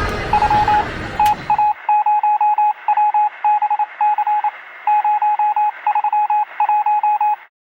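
Electronic beeps of one steady pitch, keyed on and off in an irregular run of short and long pulses like Morse code, over a thin radio-like hiss. Crowd noise is heard under it for the first second and a half, and the beeping stops abruptly near the end.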